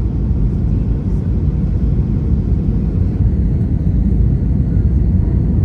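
Airliner cabin noise in flight: the steady, deep rumble of the engines and airflow heard from a window seat.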